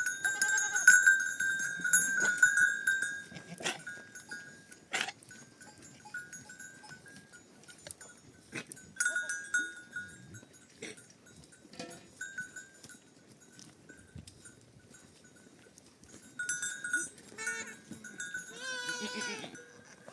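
Livestock neck bells on a grazing flock ringing and clinking, loudest in the first few seconds and again near the end. Near the end an animal bleats once.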